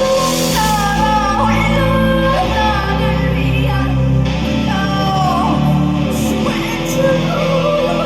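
A woman singing live with band accompaniment. Her voice holds long notes with slides between pitches, over steady bass notes.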